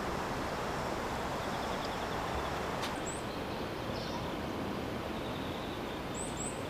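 Steady outdoor background noise with a few short, high bird chirps, one about halfway through and two in quick succession near the end, and a faint high pulsing trill in the background.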